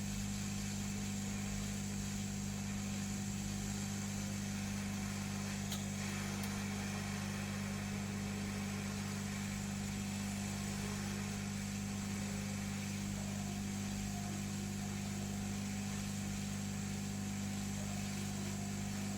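Hot air rework gun's blower running steadily at soldering heat: a steady hum under an even hiss of blown air.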